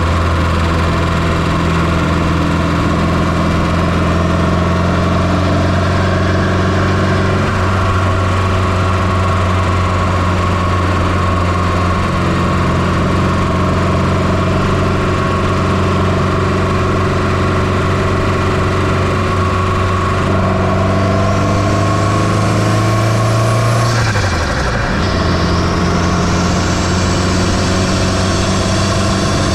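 Turbocharged 2.0 16V four-cylinder engine of a 1995 Fiat Coupe, heard from inside the engine bay, running steadily. About two-thirds of the way through, a high whine builds and the engine note rises slightly. It then drops sharply for a moment before settling back to its steady run.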